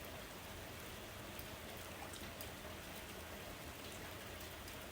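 Steady rainfall, an even hiss with faint scattered drops.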